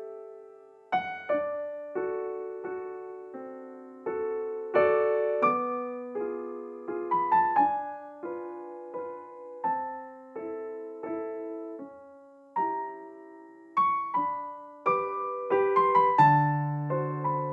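Background piano music: slow single notes and chords, each struck and left to fade, growing busier near the end.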